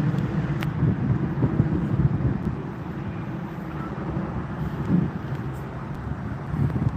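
Low, steady rumble of a jet airliner climbing away after takeoff, heard from the ground at a distance, mixed with outdoor noise.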